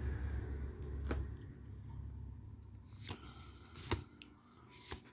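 Magic: The Gathering trading cards being handled and flipped through, with four short, sharp clicks spread over a few seconds.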